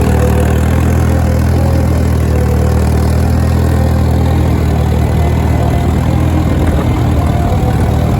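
Case DC tractor's four-cylinder engine running steadily with an even low drone.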